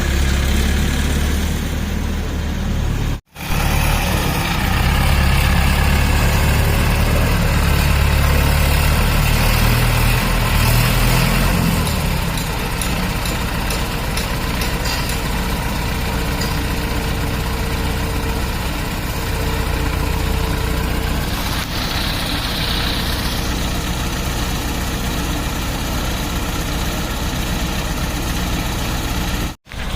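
JCB excavator's diesel engine running, its low rumble heavier for the first dozen seconds and then steady. The sound drops out sharply for an instant twice, about three seconds in and near the end.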